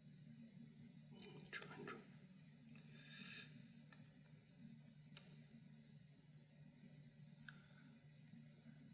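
Near silence over a low steady hum, broken by faint handling noises: a brief rustle about a second in, a short hiss, and a few small sharp clicks, one louder about five seconds in.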